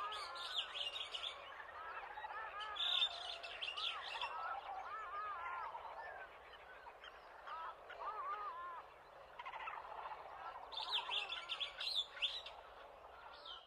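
Several birds chirping and calling, with many short rising-and-falling notes and bursts of higher chirps near the start, about three seconds in and again near the end.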